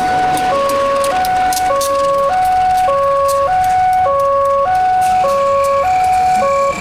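Indonesian railroad crossing alarm sounding its electronic two-tone warning, alternating high and low notes about every half second. It cuts off suddenly near the end.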